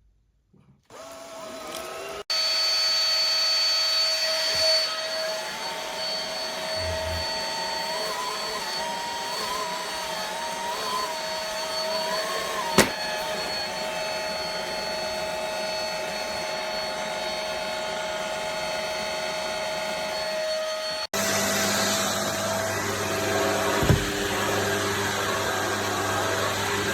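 Cordless stick vacuum cleaner (Tower VL35) switching on about a second in, then its motor running with a steady high whine. A single sharp click comes about halfway through, and the sound changes abruptly about two-thirds of the way in.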